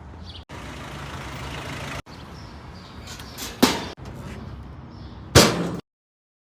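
Vehicle running with a steady low rumble, in short clips cut off abruptly several times, with two sharp knocks: one about three and a half seconds in and a louder one about a second later.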